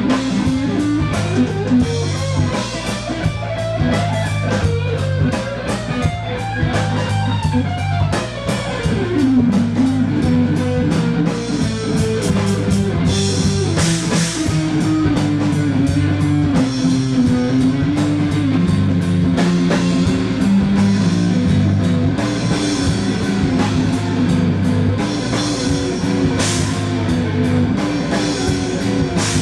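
Live rock band playing: guitar over a drum kit with a steady beat, with a melody line bending up and down.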